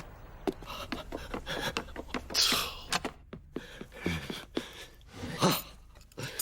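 A scatter of small clicks and taps, like cartoon sound effects, with a few brief breathy vocal noises such as a gasp.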